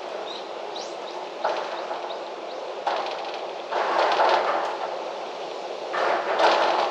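Wind blowing in gusts, the rushing swelling suddenly and dying back several times. A few faint high bird chirps come near the start.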